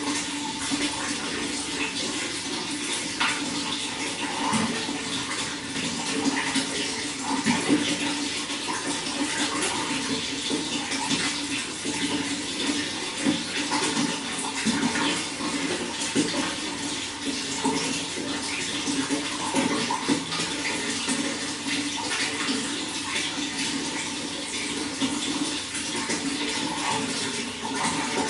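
Water running and splashing steadily, with many small burbles and splashes.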